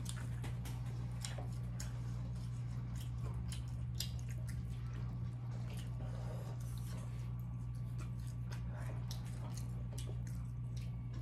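Close-up chewing and lip-smacking as two people eat sauce-coated chicken wings: many small wet clicks and smacks, over a steady low hum.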